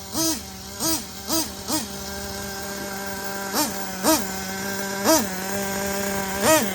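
Ofna Titan's .25 nitro engine idling steadily, blipped up in pitch eight times with short throttle stabs, four in quick succession at first and four more spaced out after. The owner says it is still running rich.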